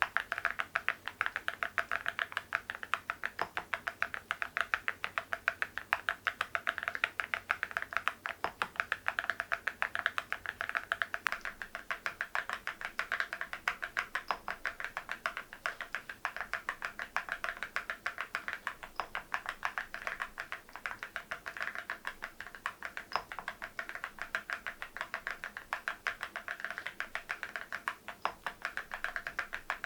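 Continuous fast typing on an MZ Y3 mechanical keyboard with ceramic keycaps: an unbroken stream of sharp keystroke clicks, many a second.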